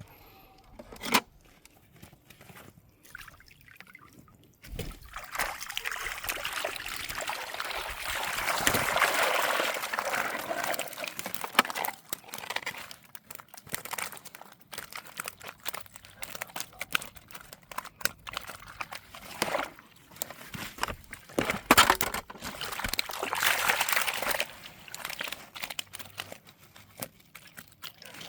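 Water sloshing and splashing in two longer spells, with scattered sharp clicks and knocks in between.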